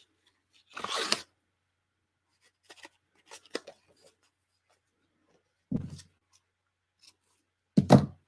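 Paper journal pages and ribbon being handled at a work table: short rustles and scrapes with a few small clicks, and two duller knocks, the louder one near the end.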